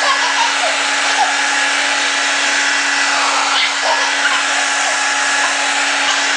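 Handheld hair dryer running steadily: a dense rush of blown air over a constant motor hum.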